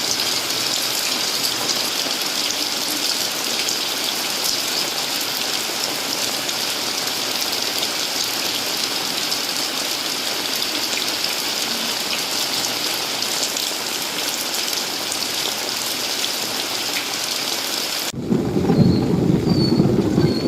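Heavy rain pouring steadily onto the street and nearby surfaces, a dense even hiss. About eighteen seconds in it gives way abruptly to a louder low rumble.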